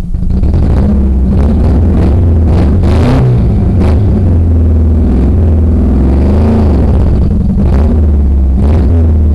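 Ford car's engine revving hard under load while the car is stuck in a muddy hole and being driven to get out, its pitch rising and falling several times. A few sharp knocks or splatters are heard over the engine.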